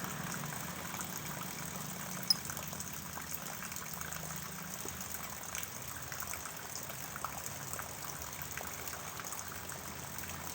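Rainwater trickling and dripping steadily, with scattered small drip ticks and one sharp click a little over two seconds in.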